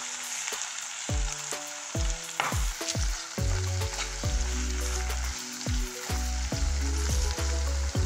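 Onion-tomato masala sizzling in hot oil in a nonstick kadai, stirred and scraped with a wooden spatula as it is sautéed down to dry. Background music with held low notes and thumps plays along, fuller from about halfway through.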